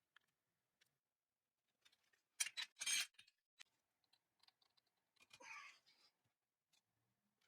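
Hand work on small metal parts: scattered light clicks, two short loud scrapes about two and a half seconds in, and a softer, longer scrape about halfway through.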